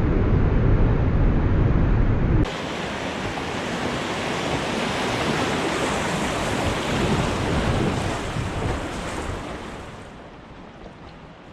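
Rushing white water of river rapids, heavy with low wind buffeting on the microphone at first. About two seconds in it cuts suddenly to a brighter, hissing rush of water, which fades toward the end.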